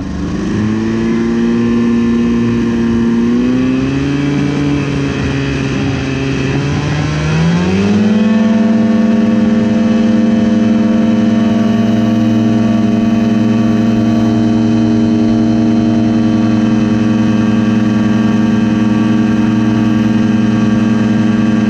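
Rotax 377 two-cylinder two-stroke engine of an ultralight aircraft running at a steady pitch. About seven seconds in, it revs up to higher rpm and holds there, steady, to the end.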